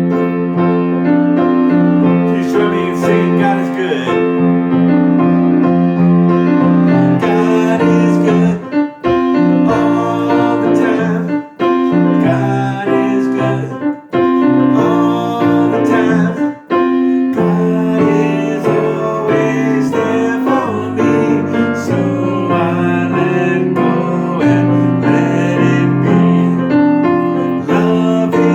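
Piano playing a song with full, sustained chords, pausing briefly between phrases every few seconds.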